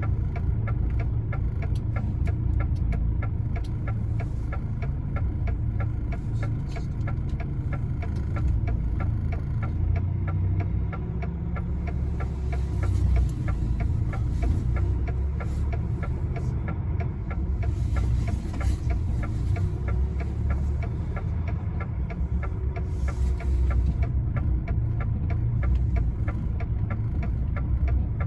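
Lorry diesel engine running steadily at low revs, with a fast, even ticking running through it.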